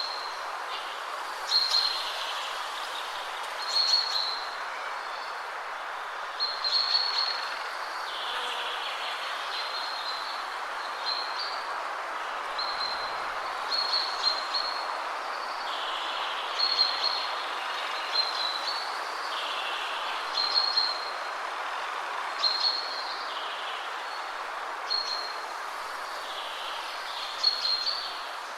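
Steady wind rushing through trees, with a bird singing short, bright song phrases over it, repeated every second or two.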